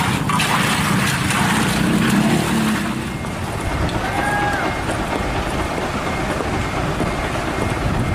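Heavy construction vehicle's diesel engine running, louder for about the first three seconds and then settling to a steadier rumble. A brief squeal comes about four seconds in, and a faint high beep repeats in the background.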